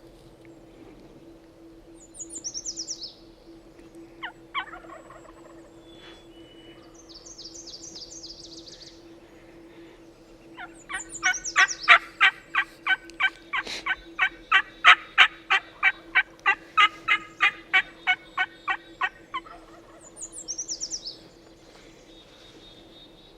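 A long, evenly spaced series of loud turkey yelps, about two and a half a second, for some eight seconds. Short high songbird calls come before and after it.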